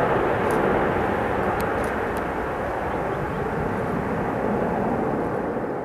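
Airbus A330-200 jet engines after takeoff, a steady roar that slowly fades as the airliner climbs away.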